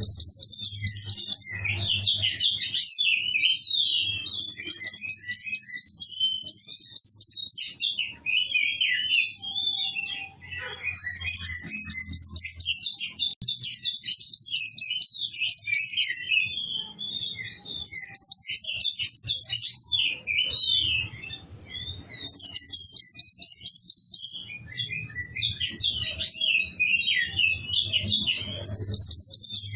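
Kowul songbird singing continuously: high, rapid trills a second or two long alternate with quicker warbling phrases, over a faint low hum.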